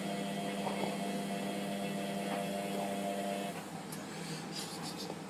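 Hotpoint Aquarius WMF720P washing machine running a wash, its drum motor giving a steady hum that stops about three and a half seconds in, leaving a quieter background with a few faint ticks.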